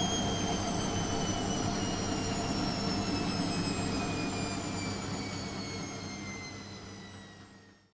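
Washing machine drum spinning down at the end of its spin cycle: a whine that falls steadily in pitch over a low motor hum, fading over the last few seconds and then stopping.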